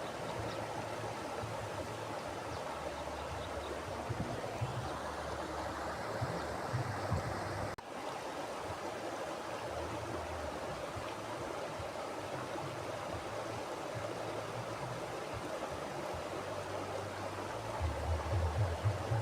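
Mountain river flowing, a steady rushing of water with low rumbles coming and going, strongest near the end. The sound dips for a moment about eight seconds in.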